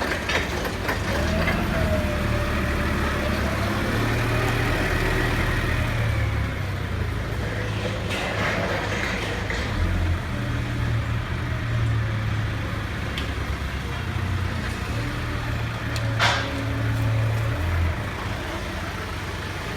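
A machine's engine running steadily in a vehicle-dismantling yard, its drone stepping up and down in pitch, with a faint rising and falling whine early on and one sharp clank of metal about 16 seconds in.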